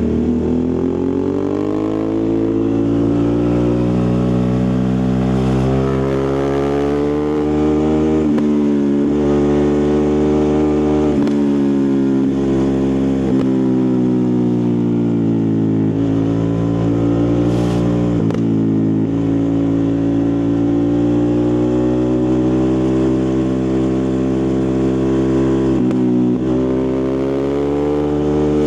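Ducati Multistrada 1260 Pikes Peak's 1262 cc V-twin engine and exhaust under way, its pitch climbing as it pulls and dropping sharply at each upshift, four or five times, with one slower fall as it eases off in the middle.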